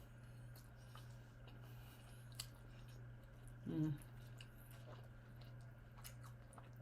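Faint chewing of a mouthful of fried rice, with a few small clicks, over a steady low hum. A short hummed vocal sound comes a little past halfway.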